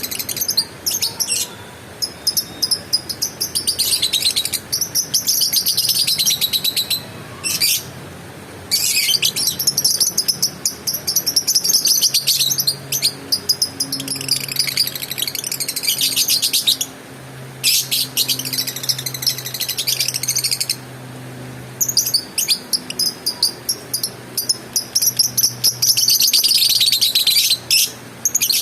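Lovebird chattering in long bouts of rapid, high-pitched trilling, each several seconds long, broken by short pauses.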